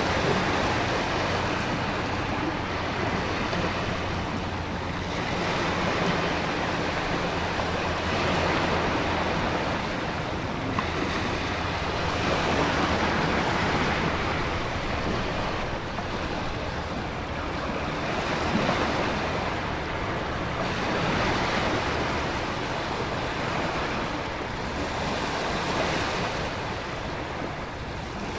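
Storm ambience: heavy ocean surf surging and breaking every few seconds over a steady rush of wind and heavy rain.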